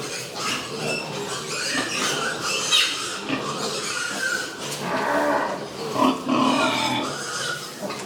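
Pigs grunting and squealing, short irregular calls overlapping, some low and some high-pitched.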